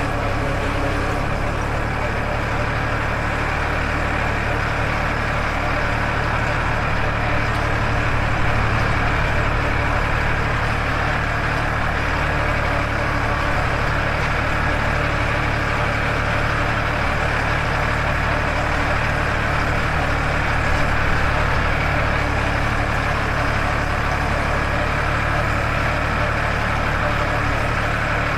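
Farmtrac 60 tractor's three-cylinder diesel engine running steadily as the tractor drives along, heard from the driver's seat.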